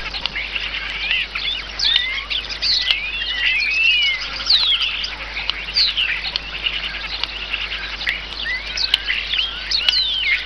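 A songbird singing: a fast, varied run of high whistled notes and sliding calls, many of them steep downward slides.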